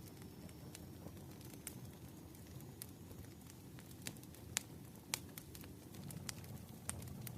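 Crackling fire ambience: sharp, irregular pops and snaps over a low, steady rumble, faint overall, with the loudest pops about halfway through.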